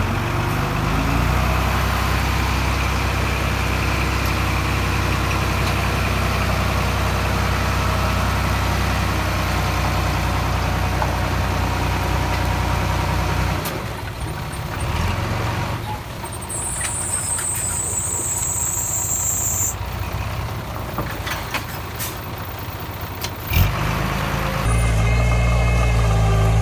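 Diesel engines of earthmoving machinery running steadily with a low drone. Midway a high hiss sounds for about three seconds, and near the end there is a sharp knock, after which a different engine note with a wavering pitch takes over.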